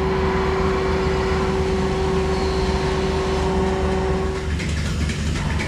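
Barn machinery running: a steady motor whine over a low hum. The whine cuts off about a second before the end.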